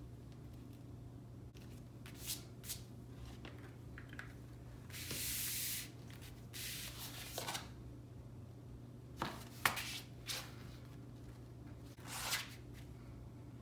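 Hands handling paper and cardstock pieces on a scrapbook page: scattered rustles and scrapes, one longer slide of paper about five seconds in, and a few light taps and clicks.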